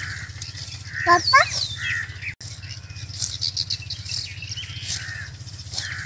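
Birds chirping and calling again and again, with one short, louder call about a second in, over a steady low hum. The sound cuts out for an instant partway through.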